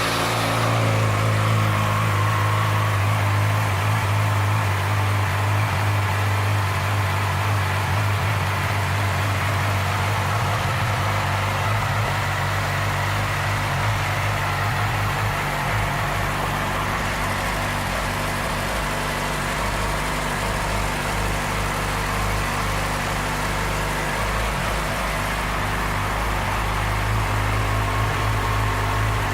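2009 Yamaha YZF-R6's inline-four engine idling steadily.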